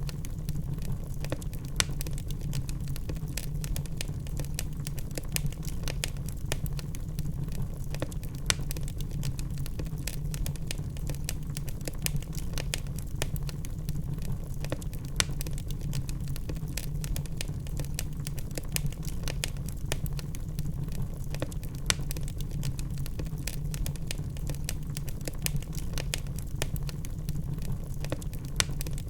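Wood logs burning in a fireplace: dense, irregular crackling with occasional louder pops over a steady low rumble of the flames.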